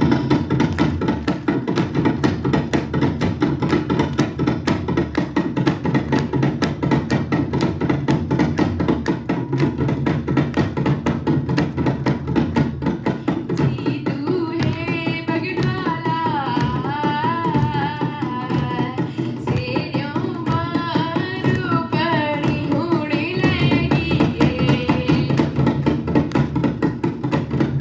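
Garhwali dhol and damau drums playing a fast, continuous rhythm. About halfway through, a wavering high melody comes in over the drums and fades out near the end.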